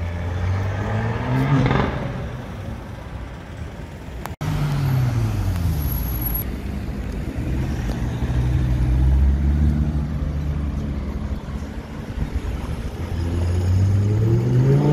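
A car engine revs up, its pitch climbing for a second or two, then breaks off. The V10 engine of an Audi R8 Spyder then takes over: its note drops and runs low and uneven as the car rolls slowly past, and it rises again near the end as the car accelerates away.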